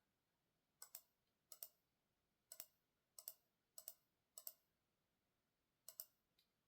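A run of small sharp clicks, seven in all at an uneven pace, each a quick double click like a press and release.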